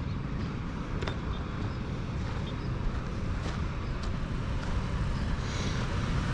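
Steady road traffic noise: motor vehicles running on the road, a continuous low rumble.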